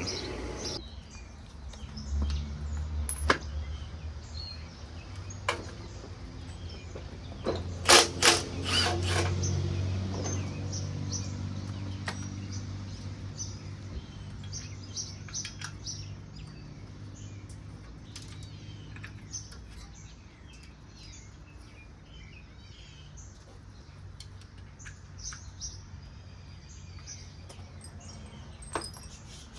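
Birds chirping in the background, with scattered knocks and clinks, loudest in a quick cluster about eight seconds in. A low hum fades away over the first half.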